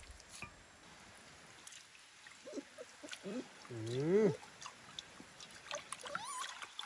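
A man's voice making short drawn-out calls that rise and fall in pitch, the loudest about four seconds in, with scattered small clicks.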